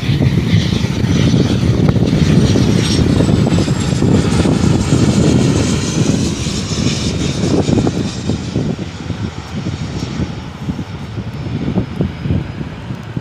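Airliner passing, its engines making a loud rumble with a high whine that slides down in pitch, fading toward the end.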